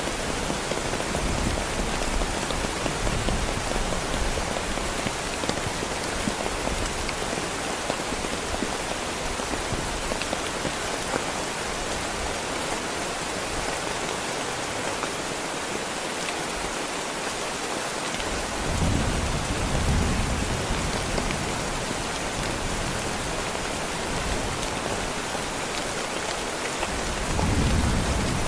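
Heavy rain falling in a dense, steady hiss, with low rolling rumbles of thunder at the start, again about two-thirds of the way in, and building near the end.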